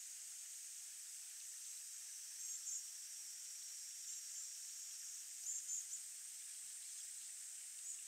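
Short, thin, high chirps of a small bird, in about four brief clusters, over a steady high-pitched hiss.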